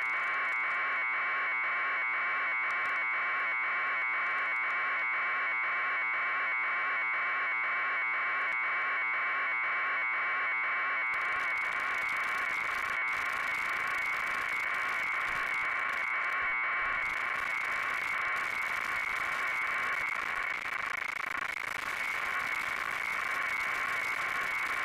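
Helicopter sound on an aerial camera feed: a harsh, steady buzz that pulses rapidly and evenly. About eleven seconds in, a hiss of noise joins it.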